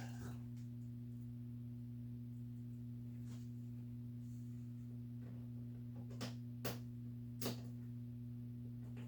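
Steady low electrical hum, with three short sharp knocks in the second half.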